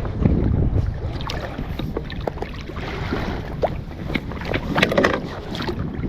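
Wind buffeting the microphone on an open kayak: a steady low rumble, with scattered light knocks and clicks toward the end.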